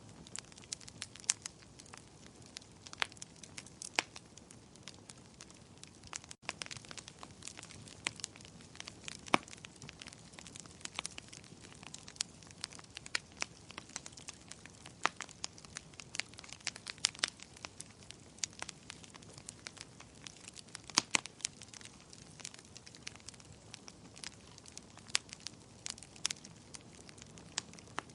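Wood fire crackling in a fireplace: irregular sharp pops and snaps, several a second, over a low steady rush of burning. A momentary dropout about six seconds in.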